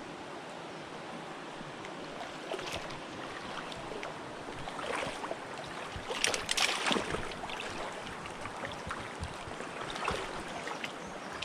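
River water running steadily, with irregular splashes in the water, the loudest about six to seven seconds in.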